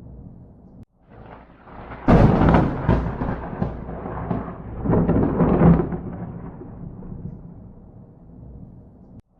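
Thunder: a sudden loud crack about two seconds in, then a long rolling rumble that swells again around five seconds and slowly dies away.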